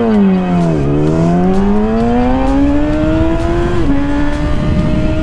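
Motorcycle engine accelerating hard. Its note dips in the first second, then climbs steadily through the gear, drops at a gear change about four seconds in, and holds after the shift.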